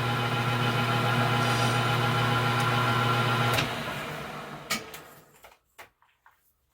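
A small metal lathe's electric motor running with a steady hum, switched off about three and a half seconds in and spinning down to a stop.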